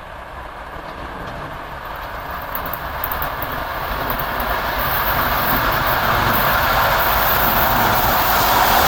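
EP2K DC electric passenger locomotive hauling an express train on approach: the rumble and rail noise grow steadily louder as it nears.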